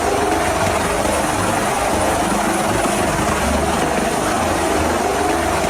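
Helicopter sound effect: loud, steady engine and rotor noise that starts and cuts off abruptly, standing for a toy helicopter.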